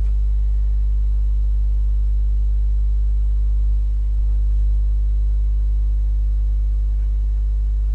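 A steady, loud low hum with several faint, level tones above it, holding unchanged throughout with no breaks or impacts.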